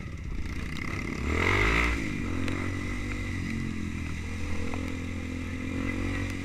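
Trail motorcycle engine running, revving up briefly about a second in, then holding a steady speed.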